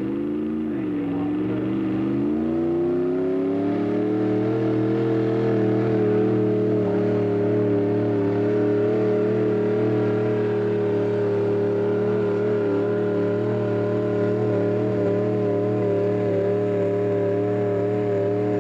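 Tractor-pull tractor's engine at full throttle: it dips briefly, revs up over the first few seconds, then holds at high, steady revs.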